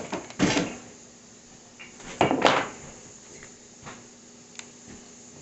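Kitchen items being handled and set down on a table: two louder clattering handling noises, about half a second in and about two seconds later, with a few light knocks in between.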